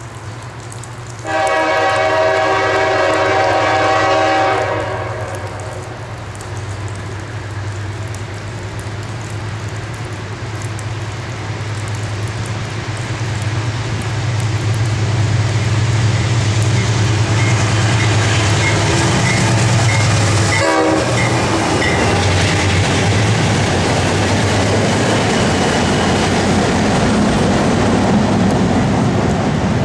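A diesel locomotive sounds one long multi-chime horn blast of about three seconds as it approaches. Its engine drone then grows louder, and the train passes with wheels rumbling and clicking over the rail joints.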